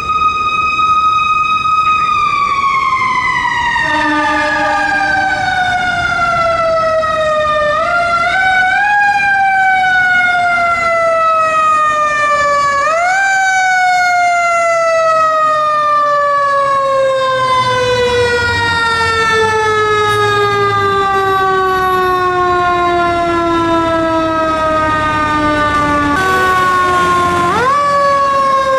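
Fire apparatus siren held at a high pitch, then winding slowly down, revved back up briefly three times as it falls.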